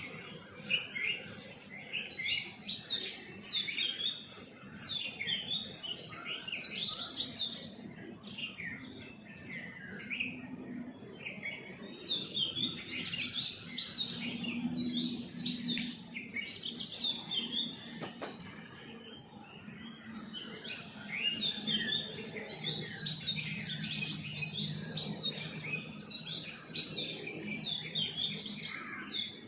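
Small songbirds chirping in a busy morning chorus: many short, high chirps and quick trills overlapping without pause, over a faint low hum.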